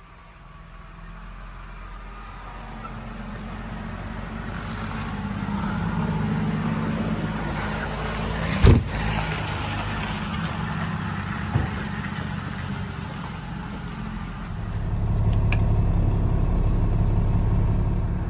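Diesel truck engine running, most likely the Kenworth T370's Cummins 8.9, growing louder over the first several seconds and louder again about fifteen seconds in. A sharp knock comes a little under nine seconds in and a smaller one near twelve seconds.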